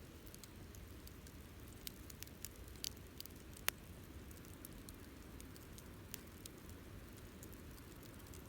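Wood campfire crackling faintly: scattered small snaps and one sharper pop a little over three and a half seconds in, over a low steady rumble of the burning fire.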